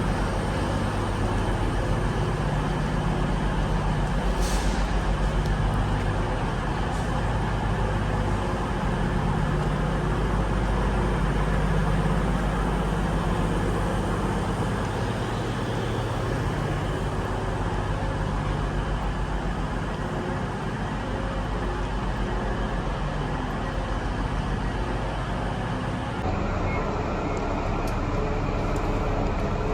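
Steady rumble of a passenger train on the move, heard from inside the carriage, with a low, even drone beneath it. The sound shifts slightly about 26 seconds in.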